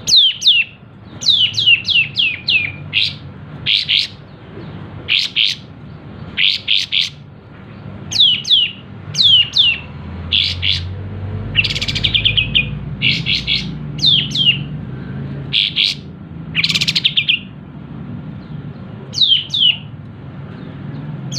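Kapas tembak bulbul calling hard: loud, short falling chirps in quick clusters every second or so, with rapid trilled runs near the middle and again about three-quarters of the way in.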